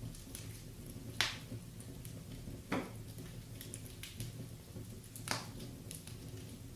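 Wood fire crackling in a fireplace: scattered small crackles, with three louder pops, about a second in, near three seconds and past five seconds, over a low steady background.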